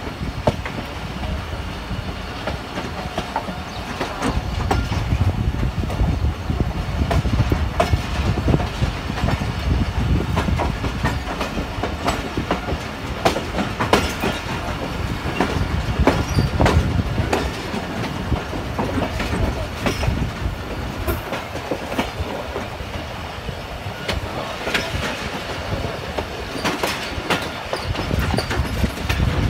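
Passenger train coach running along the track, heard from beside its open window: a steady low rumble of the wheels with sharp clacks coming at irregular intervals as they pass over rail joints.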